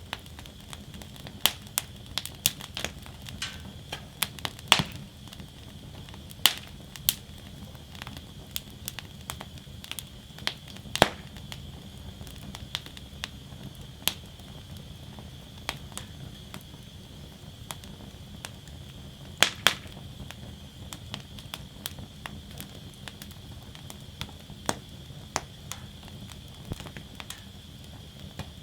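Wood fire burning in a metal fire basket. Irregular sharp crackles and pops, a few much louder snaps, sound over a low steady rush of the flames.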